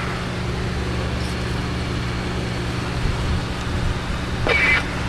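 Steady electrical hum with a layer of hiss, with one short hissing sound about four and a half seconds in.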